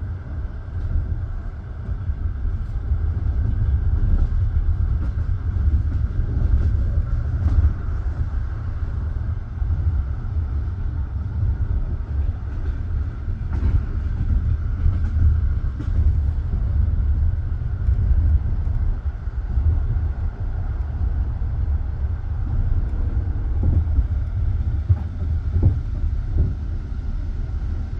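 Passenger railway carriage rolling along the track, heard from inside the carriage: a steady low rumble of wheels on rails, with a few scattered clicks from the wheels and rail joints.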